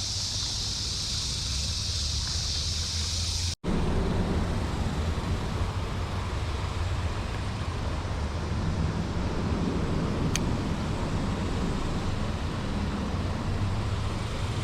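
Steady outdoor background noise of wind and distant road traffic, cutting out for an instant about three and a half seconds in. Before the break a high steady hiss sits over it.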